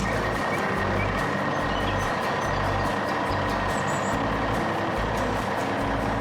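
A heavy truck's engine running steadily, as a cartoon sound effect, over a background music bass line that changes note about every half second.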